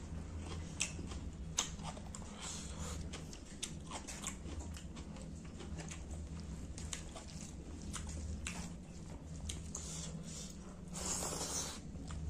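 Close-up eating sounds of a mukbang: wet chewing, lip smacks and mouth clicks as rice and pangas fish curry are eaten by hand, with a longer noisy burst about eleven seconds in.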